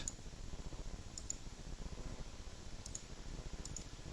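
Computer mouse clicking a handful of times, several clicks coming in quick pairs, over a faint steady hum.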